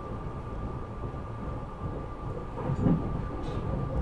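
Regional rail passenger car running on the track, heard from inside the car: a steady low rumble with a thin steady whine above it, and a louder knock about three seconds in.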